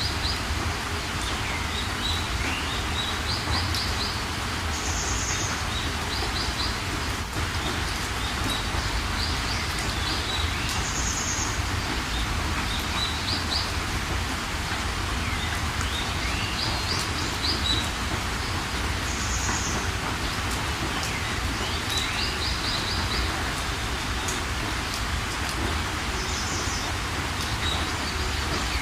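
Steady rain with songbirds calling over it: short high chirps, quick rapid trills and brief upward-curving whistles, recurring every few seconds.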